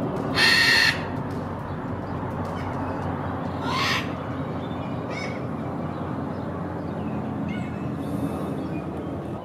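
Birds calling over a steady background noise: a short, harsh, loud call about half a second in, another call near four seconds, and a few faint chirps after.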